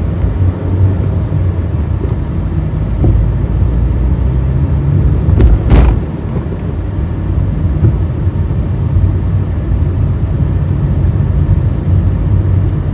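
Car driving along a road: a steady low rumble of engine and road noise, with one brief louder noise about halfway through.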